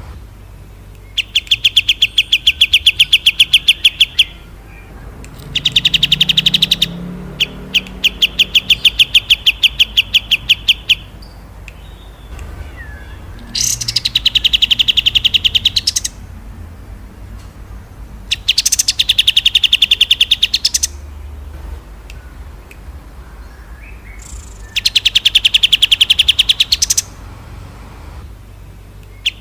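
A small songbird singing rapid rattling trills, the 'roll tembak' song used as tutor song for captive songbirds: runs of fast, evenly spaced sharp notes about two to three seconds long, repeated five or six times with short pauses between.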